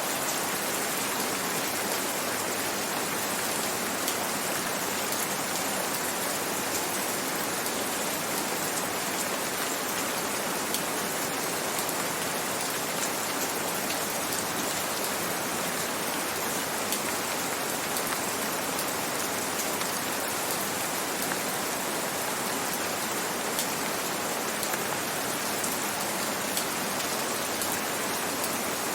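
Gentle rain falling steadily, an even hiss scattered with many small drop ticks.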